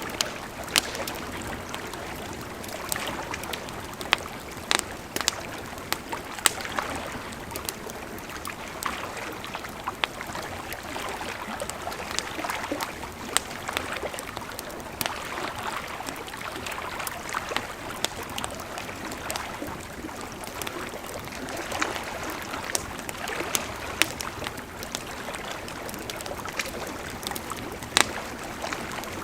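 Campfire crackling, with sharp pops at irregular intervals, over the steady rush of a flowing river.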